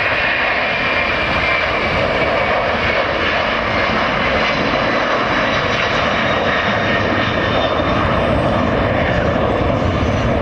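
Jet airliner engines running as a steady, loud rush, with a thin whine on top.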